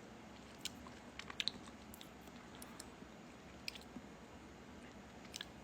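Faint eating sounds of a person chewing ice cream, with a few small clicks and ticks scattered through quiet room tone.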